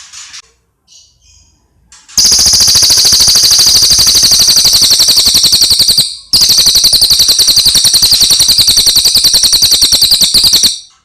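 A cililin songbird singing: a few soft chirps, then two long, very loud, fast rattling trills of about four seconds each, separated by a brief pause.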